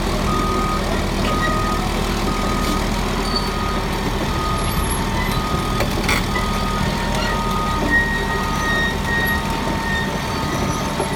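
Caterpillar D6R track-type dozer's diesel engine running steadily, with its reversing alarm beeping repeatedly.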